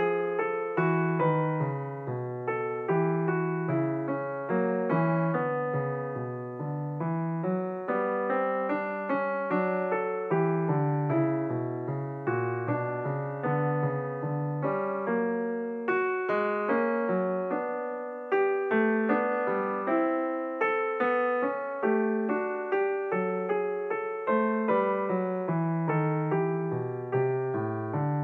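Background piano music: a steady flow of struck notes, each fading away, over a repeating lower line.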